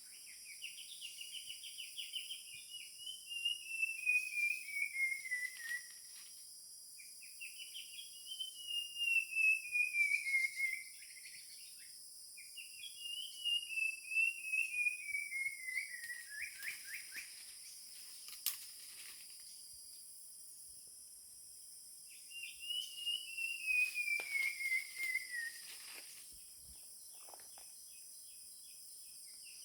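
A forest bird singing a long whistled phrase of rapid notes that slides steadily down in pitch, repeated four times with pauses between. A steady high insect drone runs underneath.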